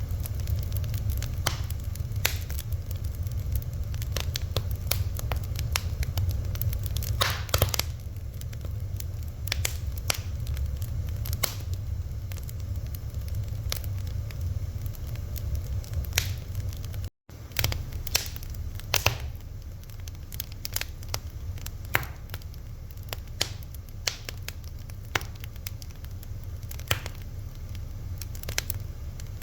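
Fire crackling, with irregular sharp pops and snaps over a steady low rumble. The sound drops out for an instant about 17 seconds in.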